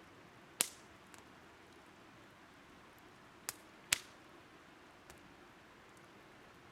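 Burning firewood popping and crackling: a sharp pop about half a second in, two more close together past the middle, and a few fainter ticks, over a steady faint hiss.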